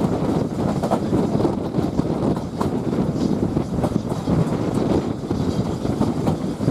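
Steam-hauled passenger carriage running along the track: a steady rumble of wheels on rail with occasional faint clicks.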